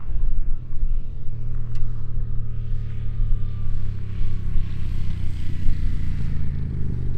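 Motorcycle engine running, starting abruptly and holding a deep, steady note that slowly drops in pitch, then begins to fade away near the end.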